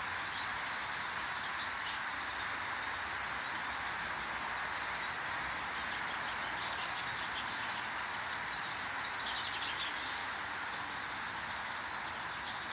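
Several small garden birds chirping and twittering over a steady background hiss, with a couple of brief ticks.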